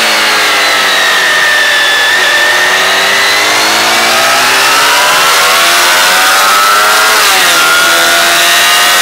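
Sport motorcycle engine heard from onboard the bike, running at high revs. Its pitch climbs steadily under acceleration, drops sharply about seven seconds in, then climbs again.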